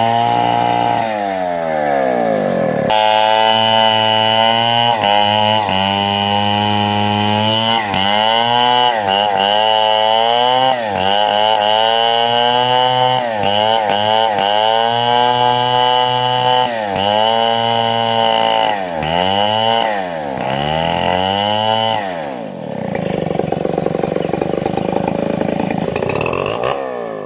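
Chainsaw engine at high revs, cutting: its pitch sags again and again and climbs back as the chain bites into the wood and comes free. About 22 seconds in it gives way to a lower, rougher running noise.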